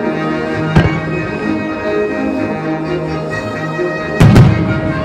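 Orchestral music playing over the show's loudspeakers, with fireworks shells bursting: one sharp bang about a second in and a louder double bang near the end.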